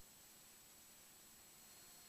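Near silence, with a single brief click at the very start.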